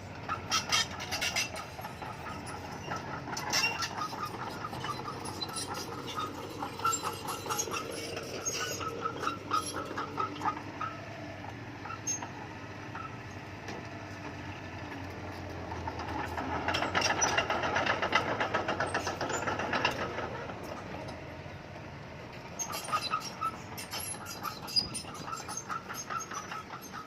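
Bulldozer's diesel engine running under load with its steel crawler tracks clanking and squeaking in runs. The engine grows louder for a few seconds past the middle, then settles.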